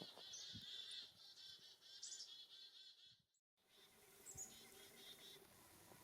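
Small birds calling in a rapid series of high, repeated chirping notes that cut off suddenly about halfway through, followed by only a few faint calls.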